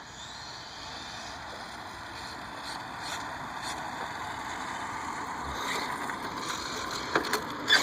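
1/10-scale electric RC car running at speed some way off: a steady, noisy motor whine and tyre sound that slowly grows louder.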